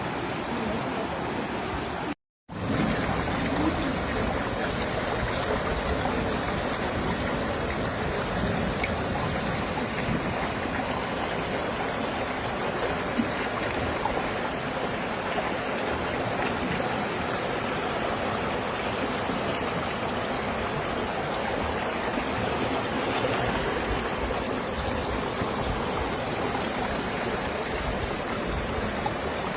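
Steady rushing of heavy rain and running floodwater, with the sound dropping out for a moment about two seconds in.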